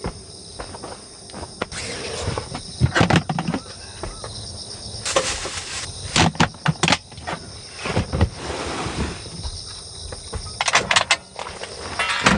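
Irregular rustling and knocking of things being handled, in several separate bursts, over a steady high hiss.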